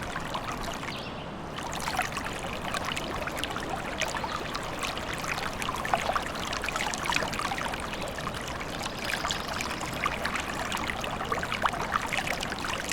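Small forest stream babbling and trickling steadily over stones, a dense patter of small splashes.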